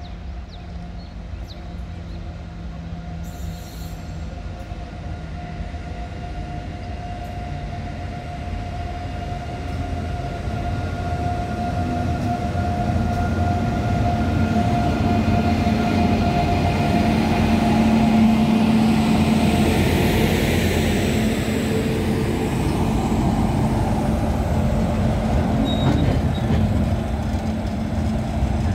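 WAG-9 three-phase electric freight locomotive coming in slowly and passing close, its steady electric whine and hum growing louder over the low rumble of wheels on rail. Near the end the BOXN freight wagons roll past.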